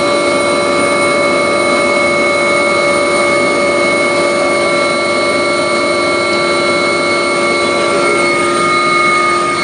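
Agusta helicopter's turbine engines and rotor running steadily in flight, heard from inside the cabin: a loud, even rush with several steady whining tones over it.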